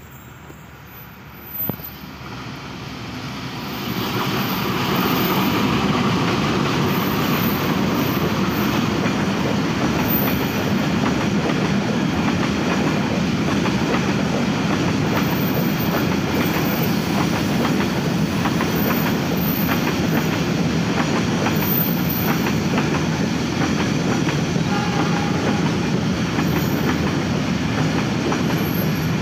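A train approaching, growing louder over the first few seconds, then passing close by. Its wheels clatter steadily over the rail joints as the cars go past.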